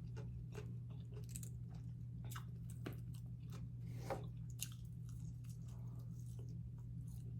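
A person chewing fried catfish close to the microphone: irregular small crunches and wet mouth clicks. A low steady hum sits underneath.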